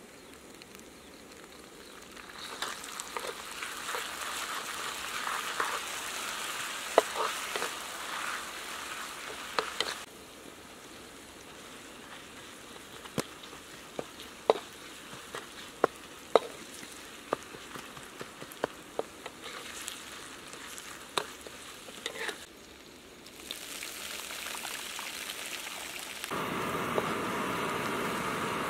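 Chopped aromatics sizzling in oil in a blackened wok, with a wooden spatula scraping and knocking against the pan many times. The sizzle swells a couple of seconds in, drops back about a third of the way through, and a louder steady hiss comes in near the end.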